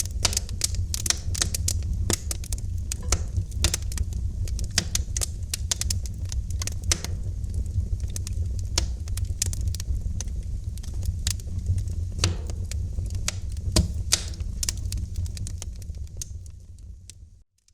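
Wood fire crackling in a fireplace: rapid, irregular pops and snaps over a steady low rumble of the flames. It fades out to near silence just before the end.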